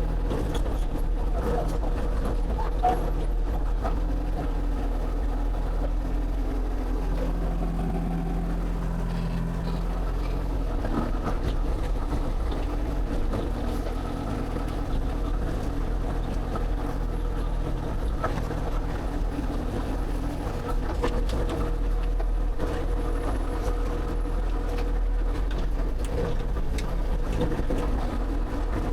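Excavator's diesel engine running steadily, a constant low drone with an added tone swelling for a few seconds about seven seconds in, and scattered light knocks.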